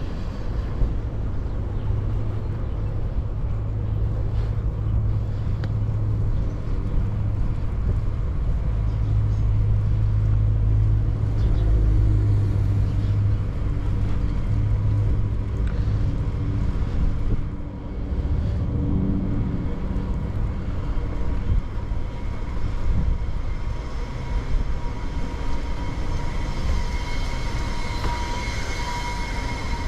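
Continuous low rumble of road traffic. Near the end a steady high-pitched whine with several overtones grows louder.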